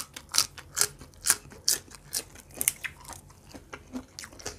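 Close-up crunchy chewing of raw water spinach (morning glory) stalk, a sharp crisp crunch about twice a second, growing softer near the end.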